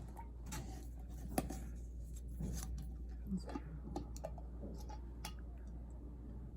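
Scattered light clicks and taps, a dozen or so spread irregularly, over a steady low hum that cuts off at the end.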